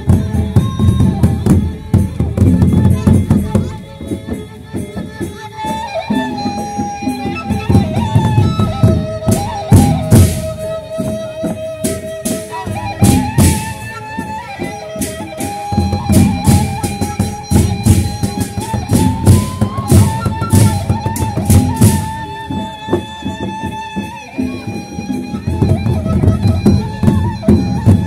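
Sasak gendang beleq ensemble playing: heavy, continuous drumming on large drums with sharp percussive strokes, under a sustained melodic line.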